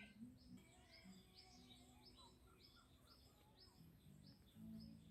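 Faint bird chirps repeating about twice a second, each a short high note falling in pitch.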